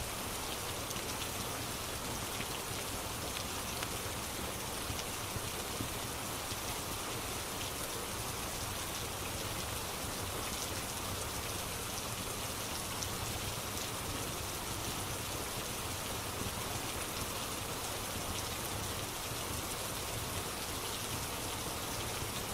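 Steady rain falling, an even hiss with scattered small ticks.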